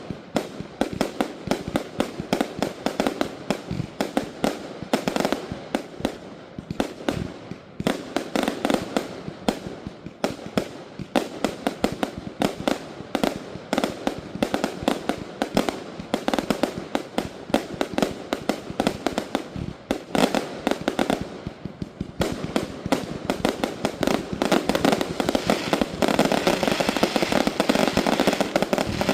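Consumer fireworks going off in rapid, continuous volleys of sharp bangs and crackle, with two short lulls and the densest barrage near the end.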